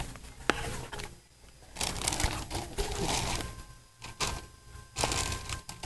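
Handling noise: rustling and scraping, with a sharp click about half a second in and another a little after four seconds.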